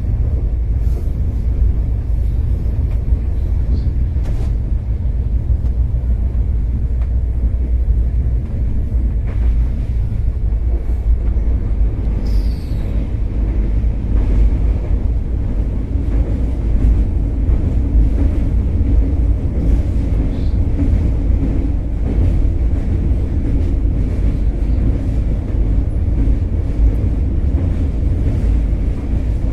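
Train running on the track: a steady low rumble with faint scattered clicks.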